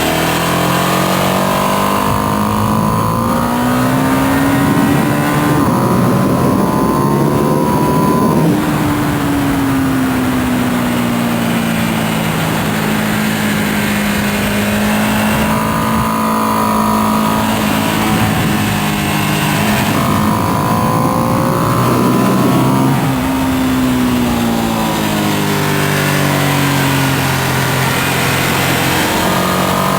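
2025 Ducati Panigale V2S's V-twin, on its stock exhaust, heard from on board under hard riding on track. The pitch climbs through the gears, drops sharply about 8 seconds in and again near 23 seconds as the rider brakes and downshifts, then climbs again, all over a steady rush of wind.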